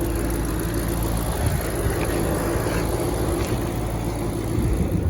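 Shelby GT500's V8 engine idling steadily while warming up after a cold start.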